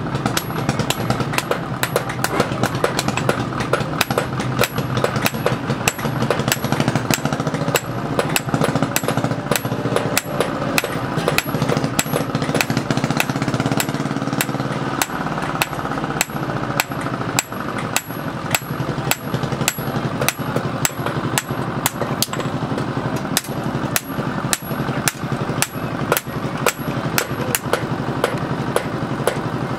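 Hammer blows on metal in quick, uneven succession, typical of forging steel on an anvil, over a steady motor hum that weakens about halfway through.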